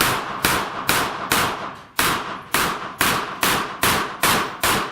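A string of rapid gunshots at steel targets: about eleven sharp cracks at an even pace of roughly two a second, each with a short echoing tail.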